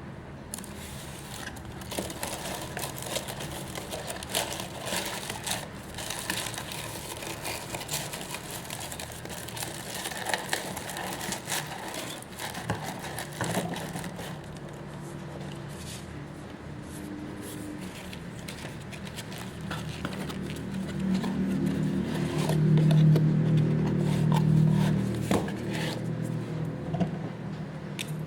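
Hands handling packing materials: plastic crinkling and scraping with many small clicks. About two-thirds of the way through, a low hum swells up and becomes the loudest sound for a few seconds.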